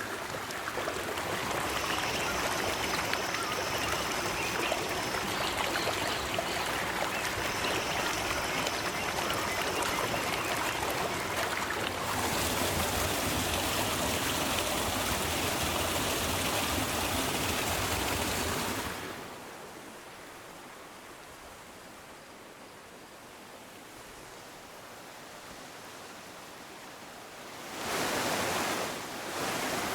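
River water flowing, a steady even rush of noise. It turns fuller and brighter a few seconds before halfway, then falls away to a much quieter, softer flow, and comes back loud briefly near the end.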